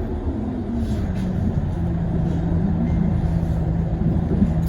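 Scania CL94UB OmniLink city bus driving, with its ZF automatic gearbox. Low engine rumble with a drivetrain tone that drops in pitch early on and then holds steady.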